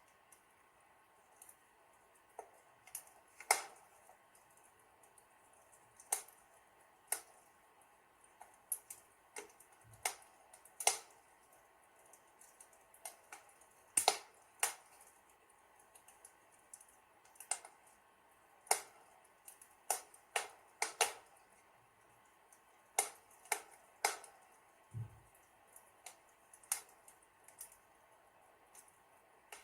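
Wood fire in a fireplace crackling, with irregular sharp pops every second or two over a faint steady hiss.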